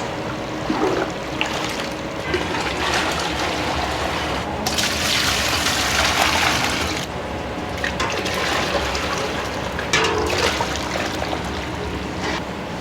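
Water running and splashing in a commercial udon kitchen, with a strong gush of water for about two seconds near the middle, among light kitchen knocks.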